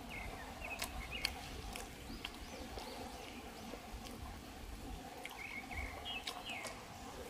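Birds chirping in the background in two short bouts, one at the start and another about five seconds in, with a few light clicks and taps in between.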